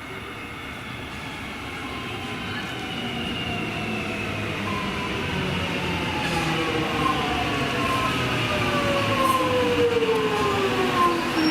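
Suburban electric train approaching and slowing, its traction motors whining in several tones that fall steadily in pitch, over a rumble of wheels on rails that grows louder.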